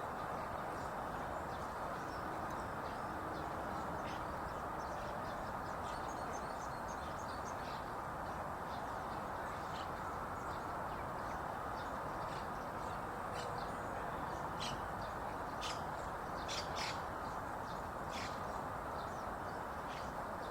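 Birds giving short, high chirping calls, scattered through and loudest in a cluster about three-quarters of the way in, over a steady background noise.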